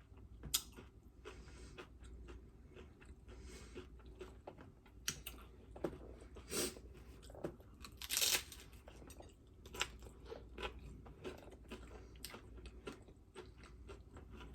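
Close-up crunching and chewing of a crisp fried tostada shell, in irregular crackly bites, with a louder crunch about eight seconds in.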